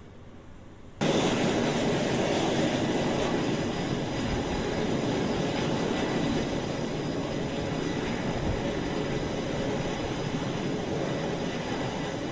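Military jet aircraft engines running loud on an aircraft carrier's flight deck. The sound cuts in suddenly about a second in and then holds steady.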